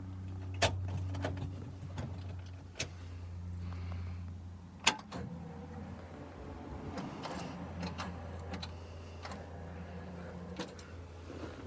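A 1961 Mercury Comet's 200 straight-six running steadily on its manual choke just after a cold start, with a low even hum and irregular sharp ticks from an exhaust leak.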